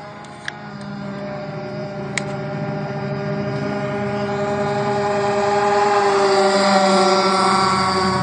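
Radio-controlled racing boat's motor whining steadily at speed, growing louder as the boat comes closer and easing off slightly near the end. Two faint clicks are heard in the first few seconds.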